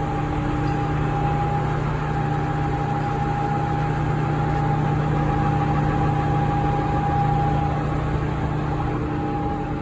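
Diesel engine of a Tadano GR-500EX rough-terrain crane idling steadily, with a steady high whine over the engine note.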